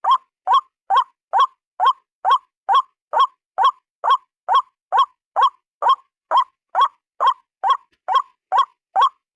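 White-breasted waterhen (ruak-ruak) calling: a single bird's short, harsh note repeated steadily about twice a second, each note rising briefly in pitch.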